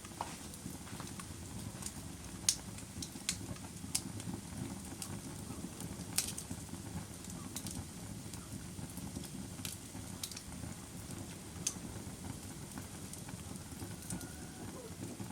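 Fire crackling: irregular sharp pops over a steady low rush, the loudest pops about two and a half and six seconds in.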